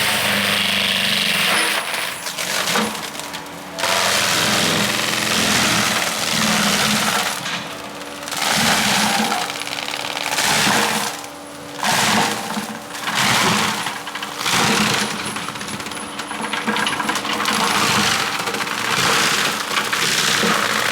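Tracked skid steer clearing brush: a steady engine hum under repeated loud bursts of crashing, snapping and grinding about every one to two seconds.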